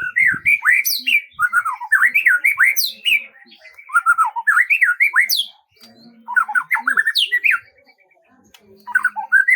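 A songbird singing in rapid runs of quick rising and falling notes: about five phrases, each a second or two long, with short pauses between them.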